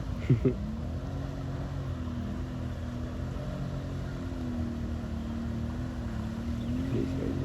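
ATV engine running at low, fairly steady revs, its pitch wavering slightly, with a short, sharp, louder sound about half a second in.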